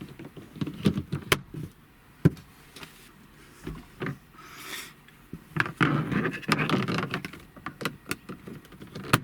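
Plastic dash trim cover pieces being handled and fitted into place: a string of irregular clicks and knocks, with sharp snaps about a second and two seconds in, and a busier stretch of rattling and rubbing around six to seven seconds.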